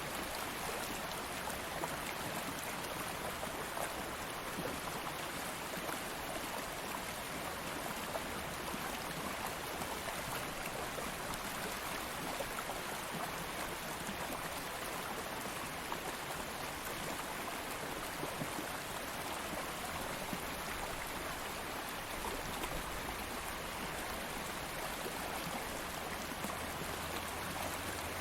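Steady rushing and babbling of a flowing stream, with no let-up.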